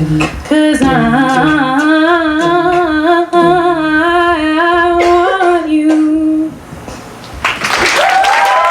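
A women's a cappella group singing the closing held chords in close harmony over sharp vocal percussion hits; the singing stops about six and a half seconds in. Near the end an audience breaks into cheering and whoops.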